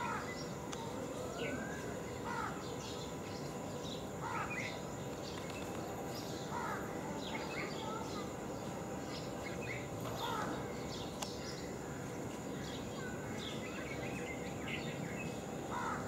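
Birds chirping, short calls every second or two, over a steady hiss of outdoor background noise.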